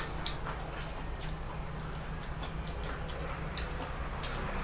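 Chewing and mouth clicks from people eating raw vegetables: faint, irregular ticks scattered throughout, over a low steady hum.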